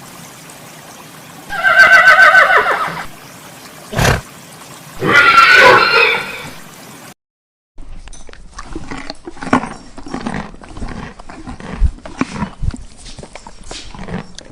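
Two loud, quavering animal calls, each about a second and a half long, with a single thump between them. After a short break comes a run of scattered clicks and knocks.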